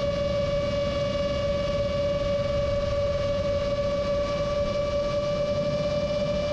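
Rajawali Fold 7 FPV quadcopter's motors and propellers droning at a steady throttle, one held pitch that barely wavers, over a low rushing noise.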